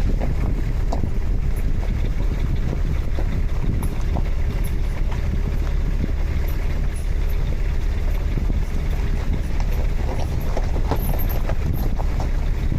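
Toyota Land Cruiser 80 Series rolling along with a steady low road and wind rumble, a faint squeak or tick coming from a rear wheel now and then.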